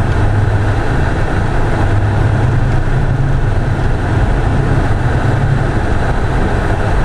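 Car engine and road noise, a steady low drone whose pitch rises slightly about two seconds in and drops back about six seconds in.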